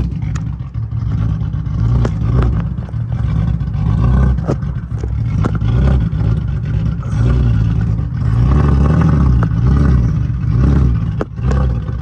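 A vehicle engine running at low revs, its pitch wavering up and down, with scattered sharp knocks and clatter.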